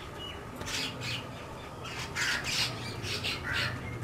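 Birds giving about six short, harsh, squawking calls in irregular succession, over a faint steady low hum.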